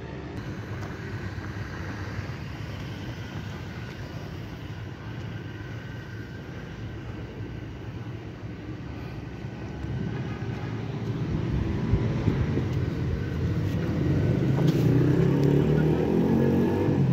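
Street traffic with a steady low rumble; about ten seconds in, a motor vehicle's engine grows louder and its pitch climbs as it accelerates close by.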